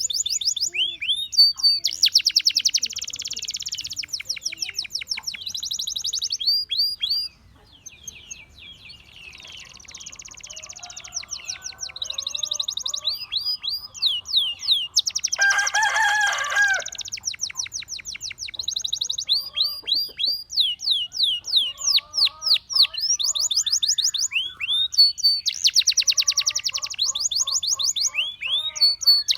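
Gloster canary singing: fast trills of quickly repeated sweeping notes, broken by buzzy rolls. The song goes softer for a few seconds about a third of the way in, then comes back. The loudest phrase is a lower, harsher one just past the middle.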